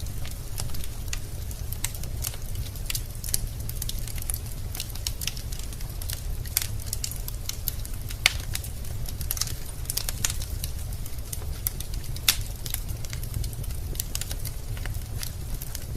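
Wood fire burning in a fireplace, the logs crackling with irregular sharp pops and snaps over a steady low rumble. Two louder pops stand out, about eight and twelve seconds in.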